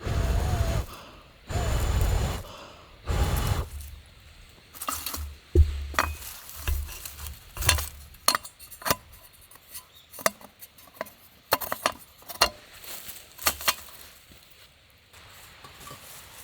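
Metal camp cookware and utensils clinking and knocking as they are handled, a run of many irregular sharp clinks. Before that, three short rushing bursts.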